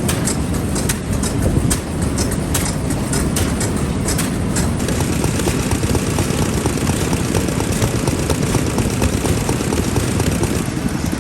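Vintage stationary farm engines running, a dense steady low chugging, with irregular sharp clicks through the first few seconds.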